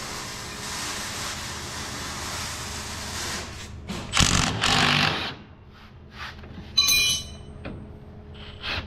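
A steady hiss, then two short bursts from an impact wrench working a bolt on the portal hub, followed by a metal part clinking with a brief ring and a few small clicks of tools being handled.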